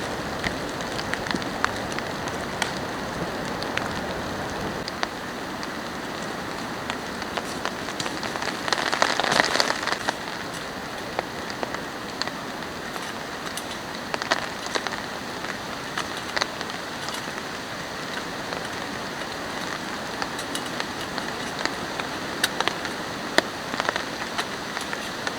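Steady rain falling, with scattered single drops striking sharply close by. The rain swells louder for about a second and a half around a third of the way in.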